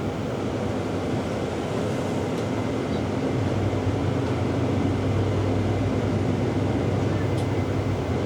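Steady engine and road rumble heard inside a moving city bus, with the engine's low hum growing louder about three seconds in.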